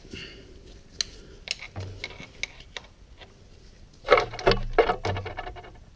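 Small screwdriver clicking and scraping against the metal spade connectors on a motorcycle's neutral safety switch as they are pried off the terminals. There are scattered ticks at first, then a louder burst of scraping and clicking about four seconds in.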